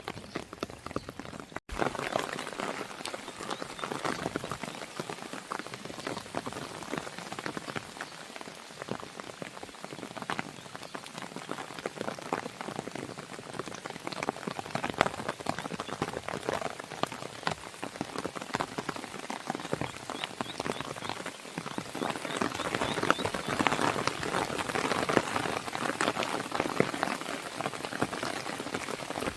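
Steady rain pattering on a window, a dense run of fine drop ticks. It cuts out for an instant about two seconds in and swells slightly louder in the last third.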